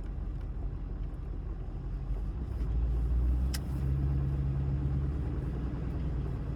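Car engine and road noise from a moving vehicle, a steady low rumble that swells for a couple of seconds in the middle, with one sharp click about three and a half seconds in.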